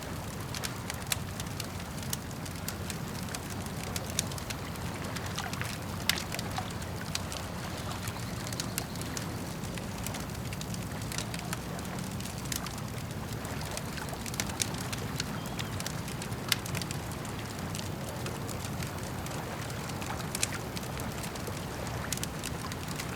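Campfire crackling with frequent irregular pops, a few louder than the rest, over a steady low rush of lake water.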